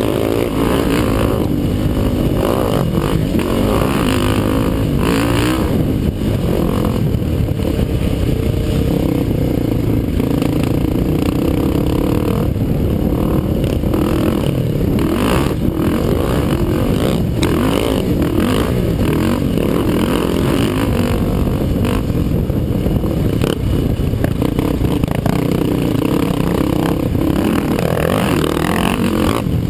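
Racing ATV engine running hard, its pitch rising and falling with the throttle, over a heavy low rumble, with scattered clattering knocks.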